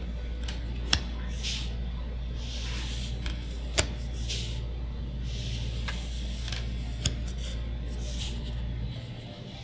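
Magic: The Gathering booster packs and cards being handled: repeated rustling and sliding of card stock and foil wrapper, with three sharp clicks. Under it runs a steady low hum that cuts off near the end.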